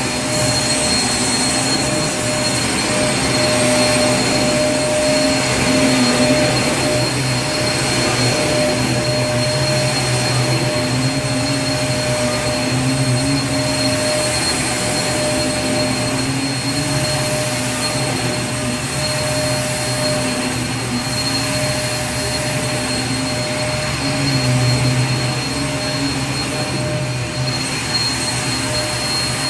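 Vacuum cleaner running steadily: a continuous rush of air with a steady whine over it.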